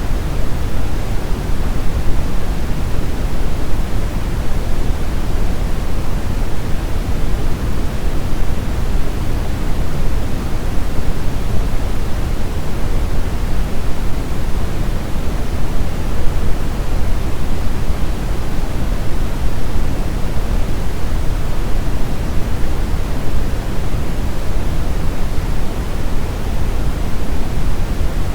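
Brown noise: a steady, loud rushing hiss weighted heavily toward the low end, with no tones or events in it.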